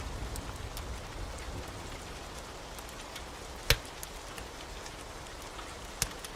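Steady heavy rain hissing, broken by a few sharp crackling pops from a wood fire. The loudest pop comes a little past halfway and a smaller one near the end.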